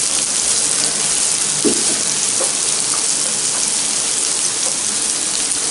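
Chopped garlic, ginger, green chillies, spring onion and onion frying in hot cooking oil in a pan: a steady, even sizzle. It is a light fry, just enough to take away their raw edge.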